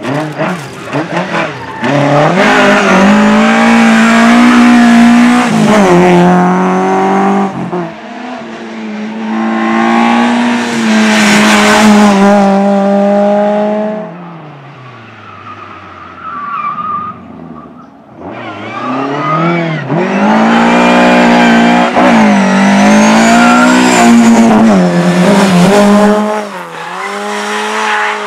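Rally cars at racing speed, engines revving hard and rising and falling in pitch through gear changes, with tyre squeal. There are loud passes in the first half and a third in the second half, with quieter gaps between them.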